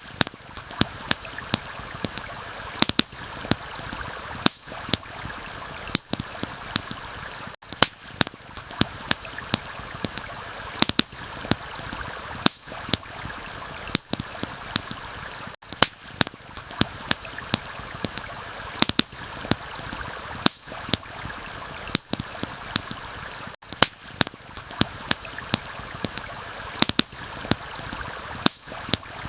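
Steady rush of a flowing stream, with a campfire crackling over it in frequent, irregular sharp pops.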